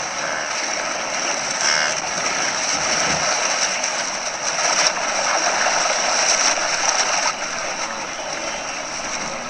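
A wildebeest herd plunging into and crossing a river: a dense, continuous din of splashing water, slightly quieter near the end.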